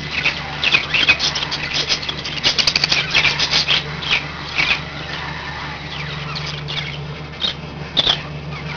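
Pet budgerigars chattering in quick, short chirps, busiest in the first four seconds and sparser after, over a steady low hum.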